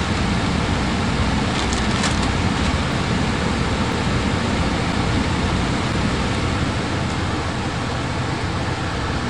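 Gas furnace running: a steady, loud rushing noise, heaviest in the low end, with a few faint clicks about two seconds in.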